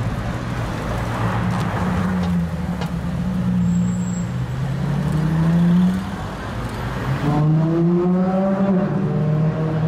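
Supercar engine accelerating, its pitch rising as it revs up; the sound changes abruptly about seven seconds in, and the engine climbs in pitch again.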